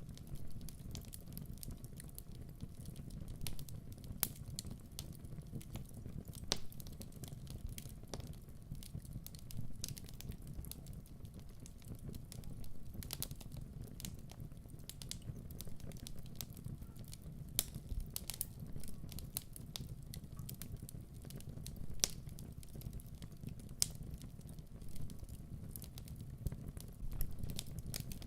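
Wood fire in a fireplace crackling, with irregular sharp snaps and pops over a steady low rumble of burning.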